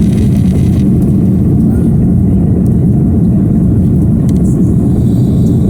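Cabin noise of an Airbus A330-200 airliner in flight: a loud, steady low rumble of engines and airflow, with a fainter hiss that thins out about a second in.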